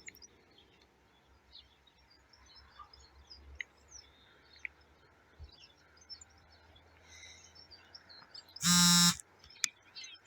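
Faint birds chirping with short, scattered high calls. About eight and a half seconds in, a loud electronic buzzing tone sounds once for about half a second.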